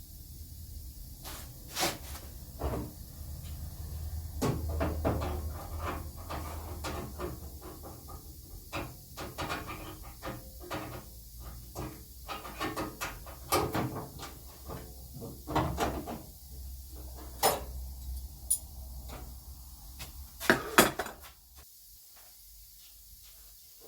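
Knocks and clatters of a steel outer sill panel being offered up and fitted against a Rover P6 body: an irregular string of sharp taps and bangs, the loudest pair about three quarters of the way through. A low steady hum underneath stops shortly before the end.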